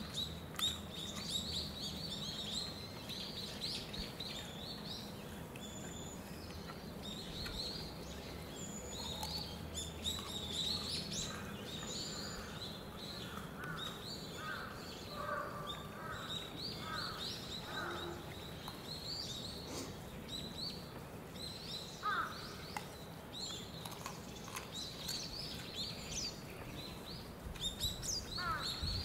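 Birds chirping and twittering throughout, over a steady outdoor background. About halfway through comes a run of lower, evenly spaced calls.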